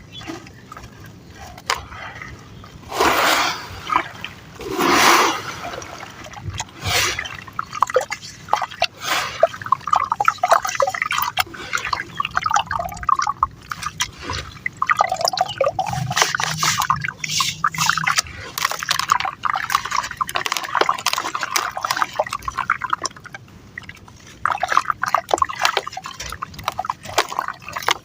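Sand and cement pieces crumbling and dissolving in water, with two louder splashes about three and five seconds in, then a long run of dense crackling and fizzing.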